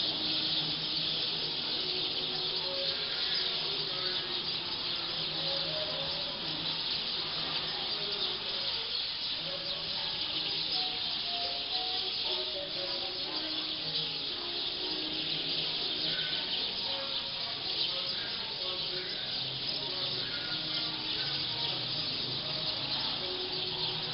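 A large flock of black birds settling to roost, their massed chattering calls blending into a dense, steady din.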